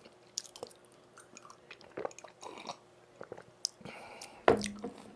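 Close-up chewing of soft, sticky Korean food, wet mouth sounds with small irregular clicks. A single louder bite or knock comes about four and a half seconds in.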